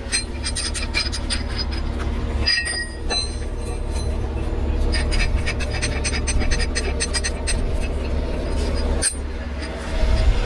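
Metal rigging gear clinking and squeaking in quick clusters over the steady low rumble of a running heavy truck engine.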